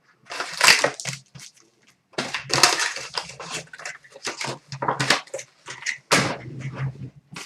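Foil wrappers of hockey card packs being torn open and crinkled: irregular ripping and rustling, with a short pause about a second and a half in.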